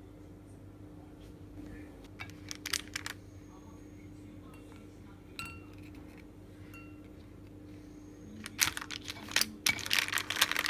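Glassware and dishes handled in a kitchen: a few light clinks early on, then a busy run of clinking and rattling in the last couple of seconds, over a steady low hum.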